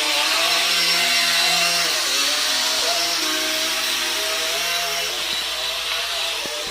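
Toy R/C quadcopter drone's small electric motors and propellers running with a buzzing whine, the pitch wavering up and down.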